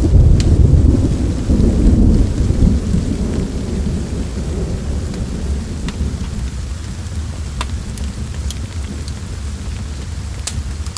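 Steady rain with a low rumble of thunder that rolls off over the first few seconds, and a few sharp pops scattered through it.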